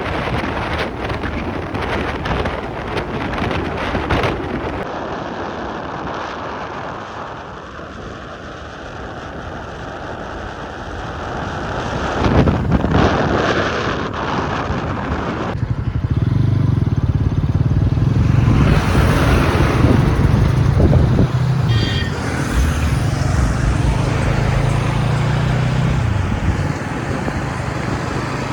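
Bajaj NS200 motorcycle on the move: wind rush and road noise, then about halfway in a steady low engine drone comes up loud.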